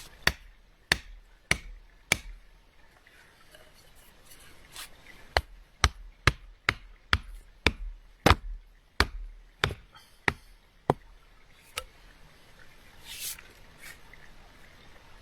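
Sharp, single blows striking wood: four about half a second apart, then after a pause a steady run of about a dozen at roughly two a second.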